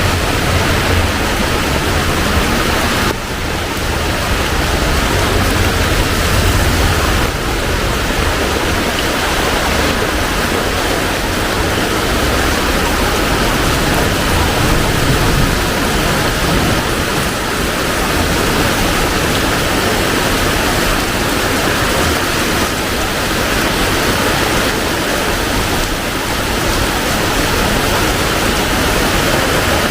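Heavy rain pouring down in a steady, loud hiss, with a low rumble underneath for the first several seconds.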